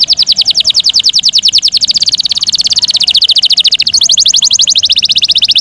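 Domestic canary singing a loud, rapid rolling trill of evenly repeated notes, switching to a different trill about four seconds in.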